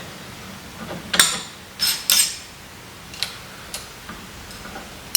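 Steel vise parts clinking and knocking against each other as they are handled during reassembly: a handful of sharp metallic clicks, the louder ones with a short bright ring, spread through the few seconds.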